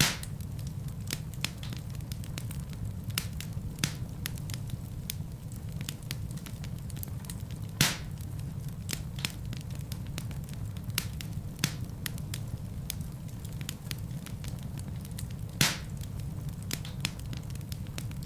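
Wood fire burning in a fireplace with a steady low rumble of flames and irregular crackles of burning logs, with two louder pops about halfway through and near the end.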